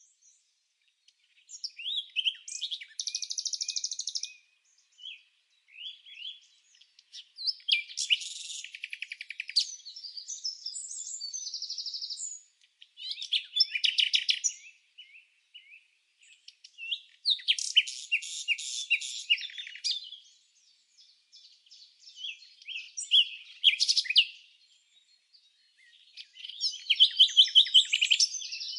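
Songbird chirping and singing in phrases of one to five seconds with brief pauses between, mixing high chirps with quick rapid trills.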